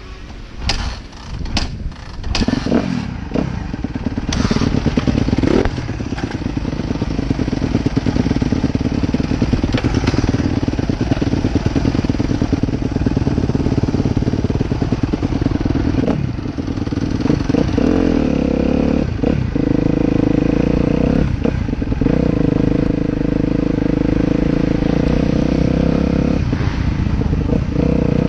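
Motocross bike engine running hard and revving as it is ridden, with short drops in the engine note several times in the second half. Sharp knocks and clatter in the first few seconds.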